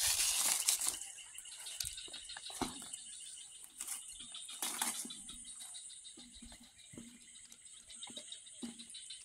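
Fishing tackle being handled as the angler carries on casting: a loud rush of noise in the first second, then scattered clicks and light rattles. A faint steady insect drone runs underneath.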